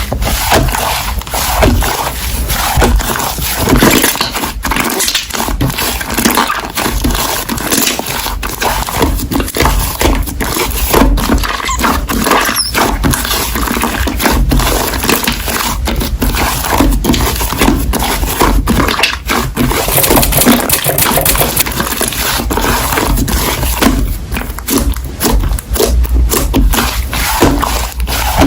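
Slime being squished and stretched by hand, making a dense, continuous run of small wet clicks and pops.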